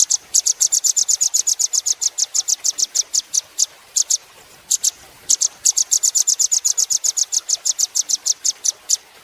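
Velvet-fronted nuthatch calling: long fast runs of sharp, high chips, about seven or eight a second, broken by a couple of short pauses near the middle.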